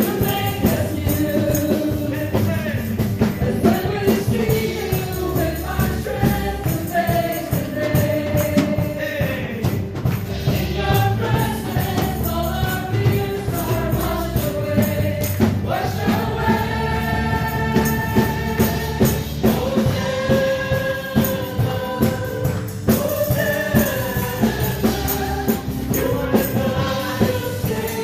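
Gospel worship music: a choir of voices singing over a band with a steady beat and tambourine.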